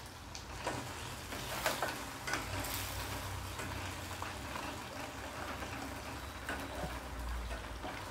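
Red-chilli paste sizzling in oil in a stainless steel kadai while a flat metal spatula stirs it, scraping against the pan several times in the first three seconds and once more near the end.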